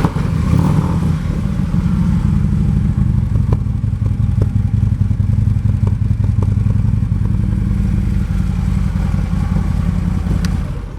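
2014 Harley-Davidson Electra Glide Ultra Limited's Twin Cam 103 V-twin running steadily at idle through Screamin' Eagle exhaust pipes, a deep low-pitched exhaust note; it stops near the end.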